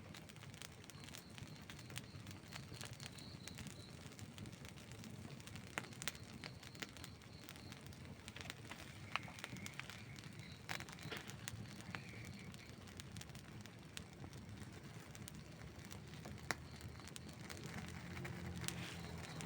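Burning wood in an outdoor campfire crackling steadily, with frequent sharp pops scattered over a low rumble.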